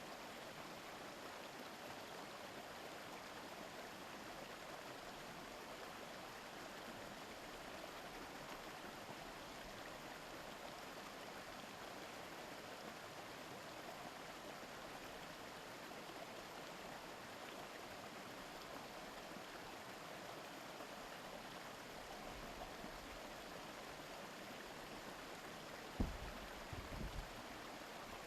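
Steady murmur of a shallow river running over stones. About 26 seconds in, a brief low thump followed by a few softer low rumbles breaks through.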